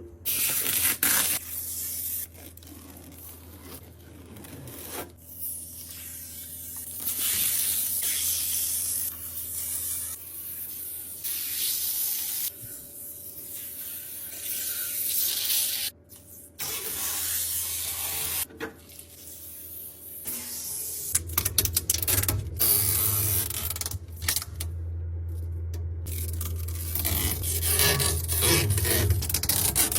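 Handling noises of fridge restocking: containers and packaging rubbing, scraping and being set down, in short segments that change abruptly every few seconds. A steady low hum runs underneath and grows louder about two-thirds of the way through, followed by many sharp clicks and knocks near the end.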